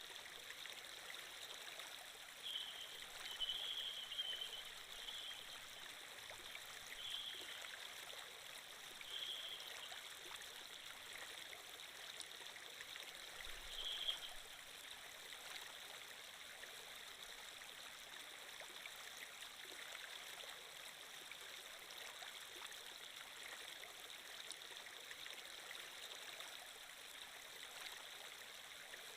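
Steady flowing-water sound effect, a stream trickling evenly, with a few short high-pitched blips in the first half.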